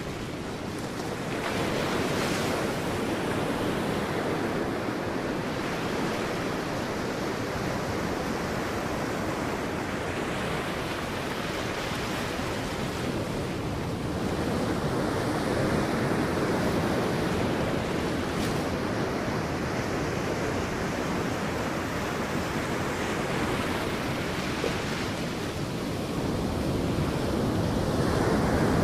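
Sea waves breaking on a beach: a continuous wash of surf that swells louder three times, roughly every thirteen seconds, as waves come in.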